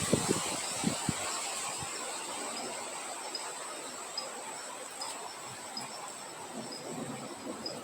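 Wind sound easing from a few low gusts in the first second to a soft, steady hiss, under a continuous high-pitched insect trill and short high chirps repeating about twice a second.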